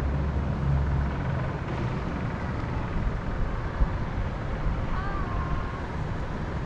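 Steady wind in a forest, with a low rumble during the first second and a single short bird whistle about five seconds in.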